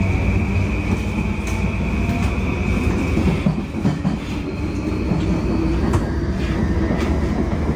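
Running noise inside a JR E235-0 series Yamanote Line car under way: the steady rumble of wheels on rail with occasional sharp clicks, and a high steady whine that stops about three seconds in.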